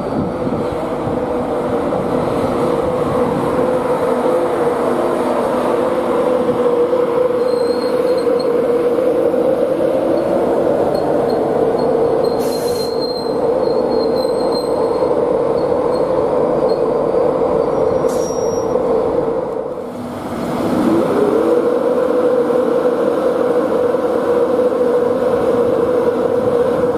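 A train running close by, a loud steady rumble with a constant hum. About two-thirds of the way through it briefly drops, then the hum rises in pitch and settles back to its steady level.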